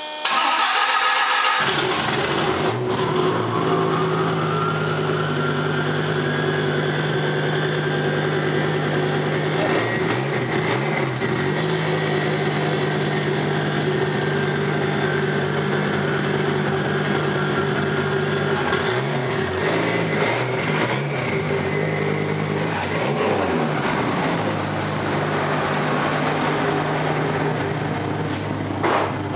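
Twin-turbocharged 1997 Dodge Viper GTS V10 starting up: it catches about a second and a half in, then idles steadily, with a whine that rises in pitch over the next few seconds and a few short revs later on.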